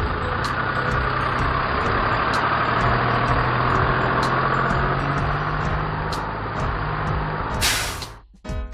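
Truck sound effect: a heavy truck engine running steadily, then a short loud air-brake hiss near the end before the sound briefly cuts out.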